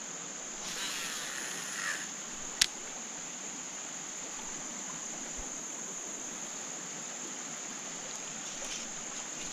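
Insects trilling steadily at a high pitch over the faint trickle of rain runoff water. A brief rush of noise about a second in, then a single sharp click.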